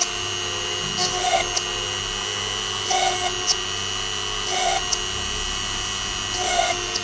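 Homemade PCB drill's small motor running with a steady whine, its 0.9 mm bit spinning at about 10,000 rpm, with four brief louder bursts about every two seconds as the bit cuts through the circuit board.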